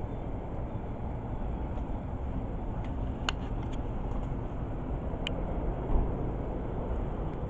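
Steady low rumbling outdoor street background, with a few sharp clicks about three seconds in and one more about five seconds in.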